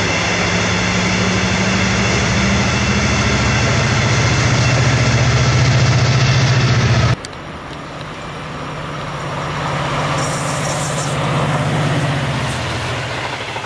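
Diesel-hauled passenger train passing: locomotive engine drone with a steady low hum and rail noise. About seven seconds in it cuts off suddenly to a quieter second passing locomotive whose engine swells and then eases off.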